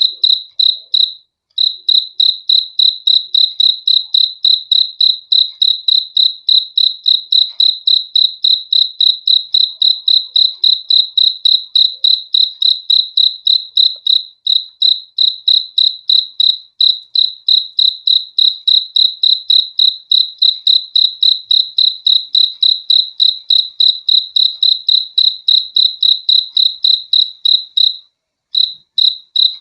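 Cricket chirping: one clear, high-pitched chirp repeated evenly about four times a second, with short breaks about a second in and near the end.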